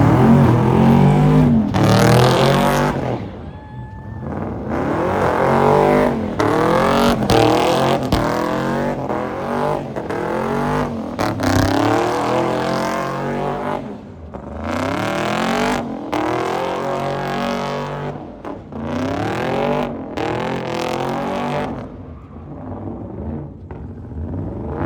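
Drift car engines revving hard, the pitch climbing and dropping again and again as the throttle is worked, with brief lifts where the sound dips.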